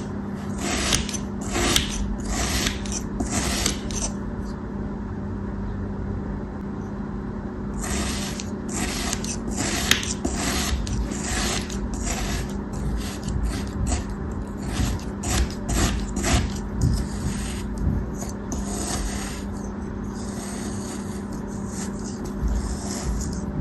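Close-up cutting and scraping strokes through a soft, crumbly craft material, repeated one to two times a second. After about four seconds they pause for several seconds, then come thicker and faster, over a steady low hum.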